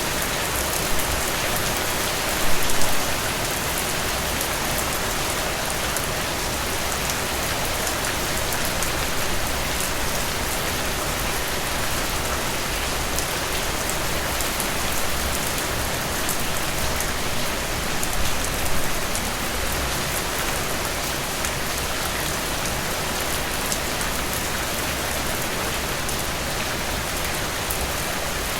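Steady rain falling and pattering on surfaces, with a few heavier spells of drops about two and a half seconds in and again past halfway.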